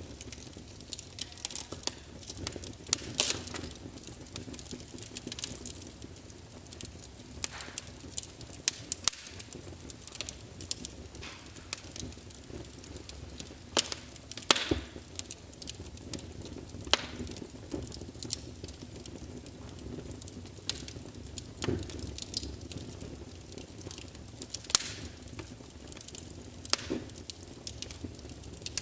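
Wood fire crackling in a fireplace: irregular sharp pops and snaps, a few of them louder, over a steady low bed of flame noise.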